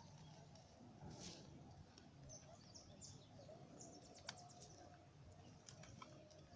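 Faint outdoor ambience with small birds chirping: many short, high chirps scattered throughout over a low steady hiss, and one sharp click a little past four seconds in.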